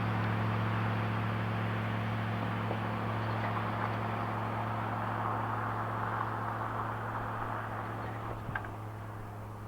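Exhaust drone of a 1999 Chevrolet Silverado's 5.3L LM7 V8 running through a Cherry Bomb chambered muffler, holding a steady low drone at constant revs and slowly getting quieter. There is a brief click about eight and a half seconds in.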